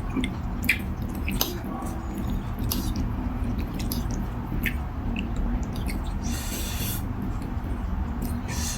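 A person eating beef noodle soup with vegetables close to the microphone: wet chewing with small scattered clicks, and a longer noisy burst about six seconds in, over a steady low hum.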